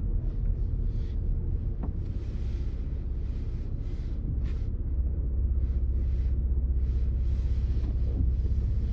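Car driving, heard from inside the cabin: a steady low rumble, with tyre and road noise that swells and fades.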